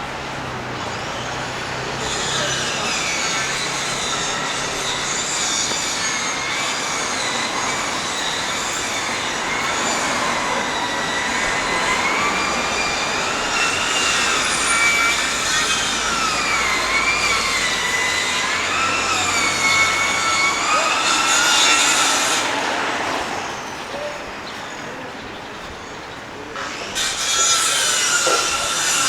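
Steel train wheels squealing on the rails: a high squeal of several tones that wavers up and down for about twenty seconds, fades out, then starts again near the end, over a steady rumble of the city.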